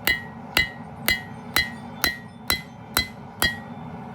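Hand hammer striking a hot steel knife blade on an anvil, eight evenly spaced ringing blows about two a second, drawing out a distal taper by thinning the metal toward the tip. A steady low rumble runs underneath.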